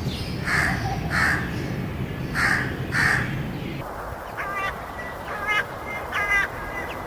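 A bird calling: four hoarse calls about half a second apart in the first three seconds, then several shorter, clearer calls in the second half.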